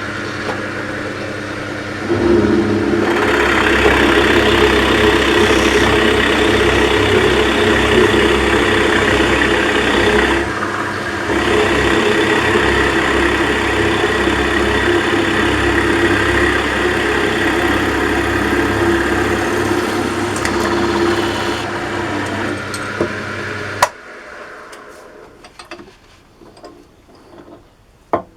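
Electric drill motor spinning up, then a 25 mm bit boring through a wooden pulley block under load, with a brief easing about ten seconds in. The cutting stops a few seconds before the motor runs down, and a few light clicks follow near the end.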